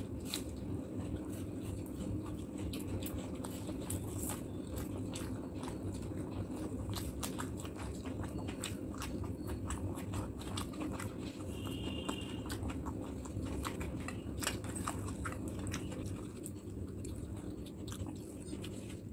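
Close-miked chewing of rice and curry eaten by hand: wet smacking with many small mouth clicks.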